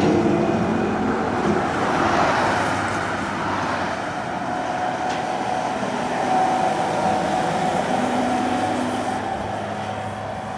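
Heavy truck's diesel engine working hard under load as it climbs a steep grade and passes, with tyre and road noise. It is loudest at first and fades toward the end.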